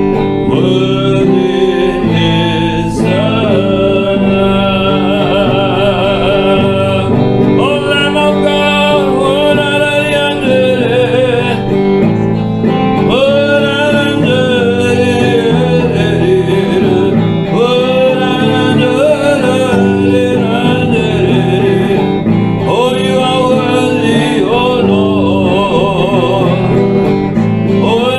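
Worship song: a voice singing a slow melody with vibrato over guitar and sustained instrumental backing.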